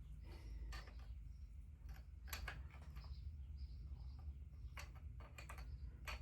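Scattered light clicks and knocks of hand tools and parts being handled in a VW T5 engine bay, about six in all, over a low steady rumble.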